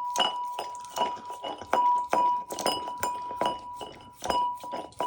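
A dog licking an ice-cream container in a bowl, knocking it about two to three times a second, irregularly. Each knock sets the bowl ringing with a bell-like clong.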